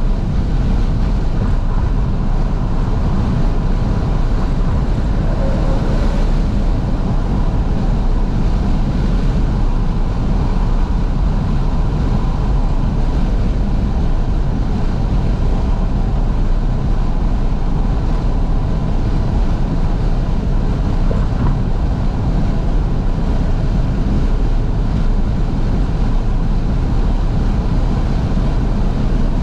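Wind buffeting through the open windows of a 2012 Fiat 500S on the move, over steady road and engine noise in the cabin. It is loud and even throughout.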